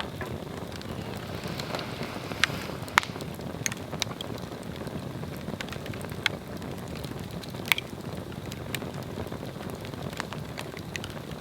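Swedish torch log fire burning with a steady low rush of flame, broken by irregular sharp crackles and pops of the wood, a few louder snaps among them.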